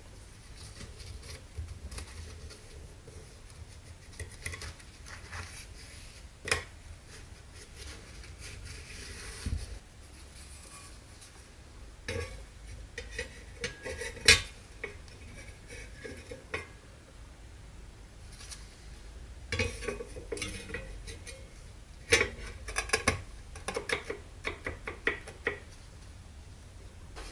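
Metal parts and hand tools clinking and clattering as they are handled, in irregular sharp knocks that come in clusters. The busiest stretch is in the second half, and there is one louder strike around the middle.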